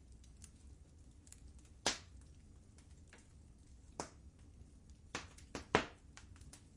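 Wood fire in a fireplace crackling, with single sharp pops about two and four seconds in and a quick run of three pops near the end.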